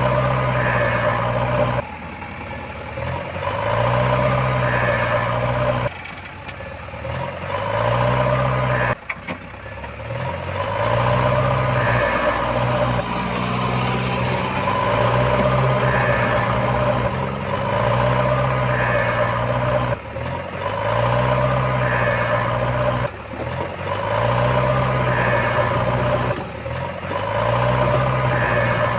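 Heavy vehicle's engine running, heard in short segments that cut off abruptly and restart every few seconds.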